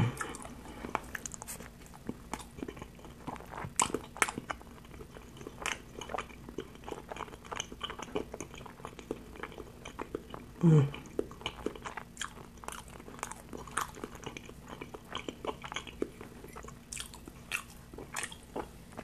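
A person chewing a bologna sandwich close to a clip-on mic: soft, wet chewing with many small, irregular mouth clicks. About eleven seconds in there is a short hum that falls in pitch.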